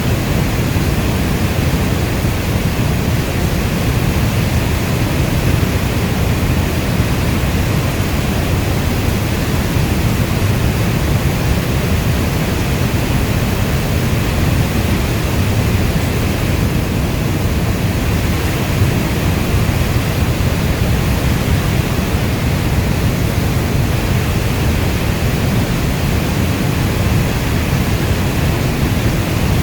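Steady rainstorm: a dense, even rush of rain, heaviest in the deep low end, that holds unchanged with no thunder or breaks.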